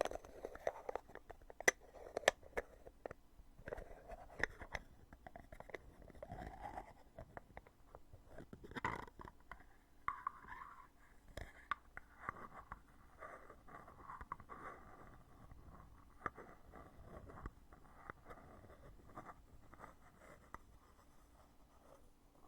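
Heavy lid of a cosmetic foundation container being opened and closed over and over, close-miked: sharp clicks and snaps, thickest in the first few seconds, with scraping and rubbing of the lid between them.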